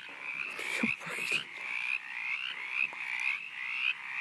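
A frog croaking loudly over and over, about two short calls a second, each rising slightly in pitch. A brief lower noise cuts in about a second in.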